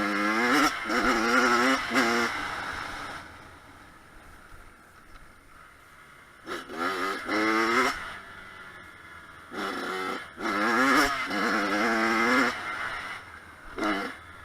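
Kawasaki KX100 two-stroke single-cylinder dirt bike engine revving in four bursts, the pitch climbing and wavering as it is ridden on and off the throttle, with quieter stretches between.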